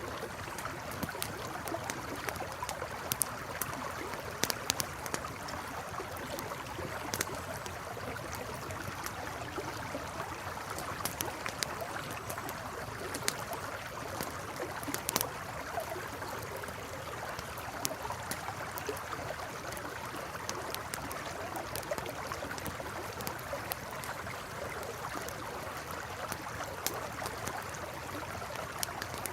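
Campfire crackling with scattered sharp pops over a river flowing steadily.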